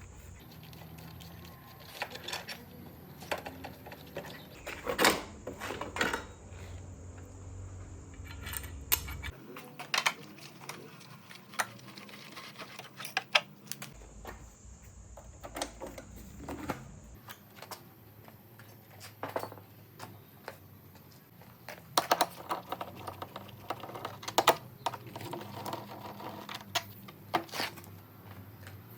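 Workshop handling sounds: scattered light metallic clicks, clinks and taps of tools and motorcycle parts, with a few louder knocks about five seconds in and again about three-quarters of the way through.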